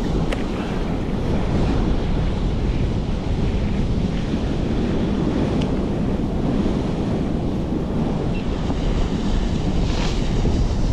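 Blizzard wind buffeting the microphone: a steady low rumbling rush with no letup.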